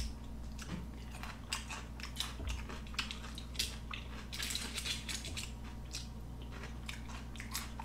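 A person chewing sushi with the mouth fairly restrained: soft, irregular wet mouth clicks and light smacks, over a faint steady low hum.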